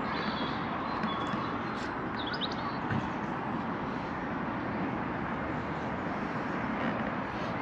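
Steady outdoor background noise with a few short high bird chirps about two and a half seconds in.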